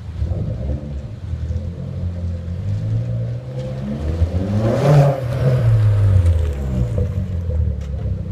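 Vauxhall Astra SRi Turbo's engine and exhaust revved, the pitch climbing steadily to a peak about five seconds in and then dropping back toward idle, with a few faint exhaust pops as the revs fall near the end.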